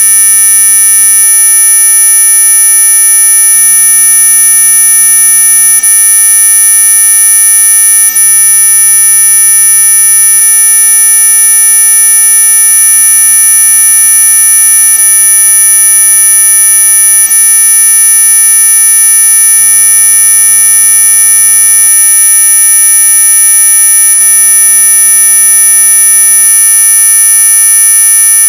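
Synthesized anti-mosquito repellent sound: a loud, unchanging chord of many pure electronic tones, from low to very high pitch, the highest ones strongest, held steady like a continuous alarm buzz.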